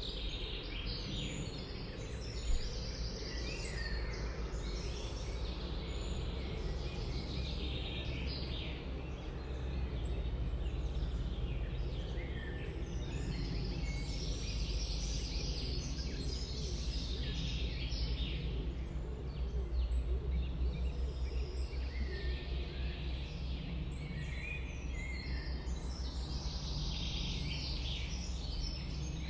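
A chorus of songbirds singing and calling, many short chirps and trills overlapping, over a steady low rumble. One brief click sounds a couple of seconds in.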